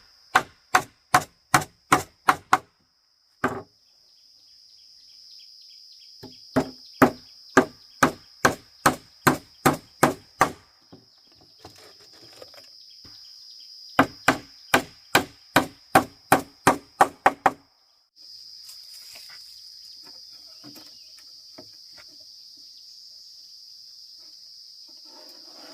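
Rapid repeated blows on wood, about three a second, in three runs of roughly seven to twelve strokes, with a steady high insect drone underneath. The last several seconds hold only the insects.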